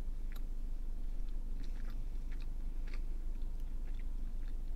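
A person chewing a bite of chicken sandwich, with small wet mouth clicks scattered through the chewing, over a steady low hum.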